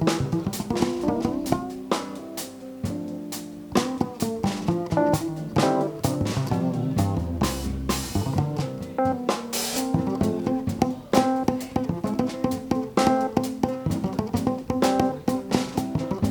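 Live jazz band playing: a drum kit with snare, bass drum and cymbal hits under plucked guitar and bass lines.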